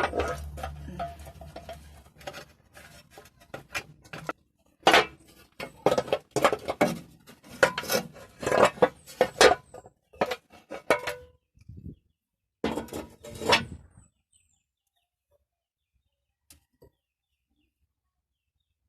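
Loose metal parts being handled: an unbolted cover coming off an Isuzu 4HE1 engine, with irregular clanks, knocks and rattles of metal on metal that stop about two-thirds of the way through.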